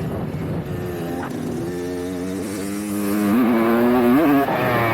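Dirt bike engine running. It gets louder about three seconds in as the throttle opens, its pitch rising and dipping quickly a few times.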